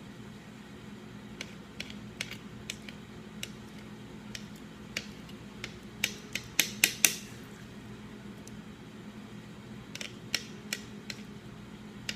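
Irregular sharp clicks and taps of kitchen utensils against a bowl or cutting board, with a cluster of louder ones about six to seven seconds in and a few more near ten seconds, over a low steady hum.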